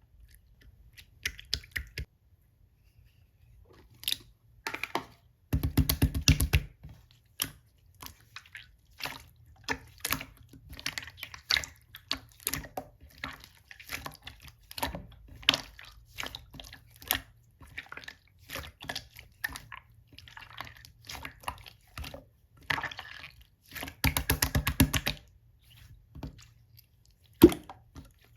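Clear slime being pressed, poked and stretched by hand, giving a run of small wet clicks, pops and squelches. Two longer, denser crackling spells come about six seconds in and again about four seconds before the end.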